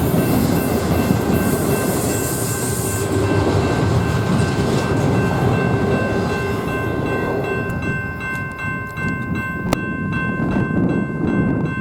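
Train rolling past, a dense rumble of railcars that thins out over the last few seconds, with a steady high-pitched tone held throughout.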